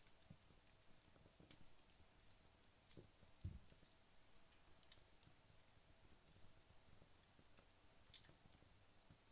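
Wood fire burning down, faintly crackling with sparse, irregular sharp ticks and pops over a soft hiss, and one louder low thump about three and a half seconds in.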